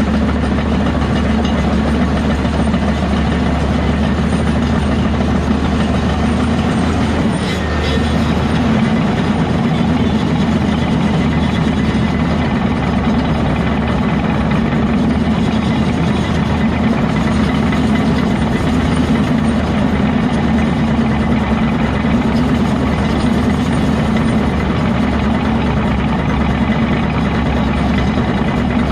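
Heavy diesel engine of earthmoving machinery running steadily, with a brief dip in its low note about seven seconds in.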